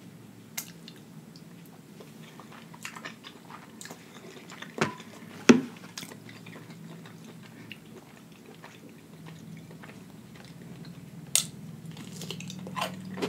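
Close-miked chewing and mouth smacking of rice and Chinese food, with scattered sharp clicks, two louder ones about five seconds in. Near the end a crisp bite into a fresh cucumber spear.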